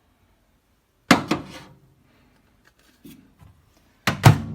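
Microwave oven door clunking twice, about three seconds apart, each a sharp double clack: the door being opened and then shut.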